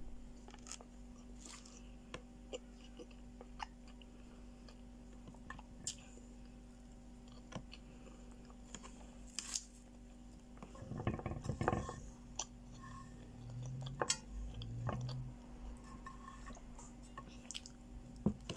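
Close-up chewing and small mouth sounds of a person eating with her fingers, with scattered faint clicks. A denser patch of chewing comes about two-thirds of the way in, followed by two short closed-mouth hums.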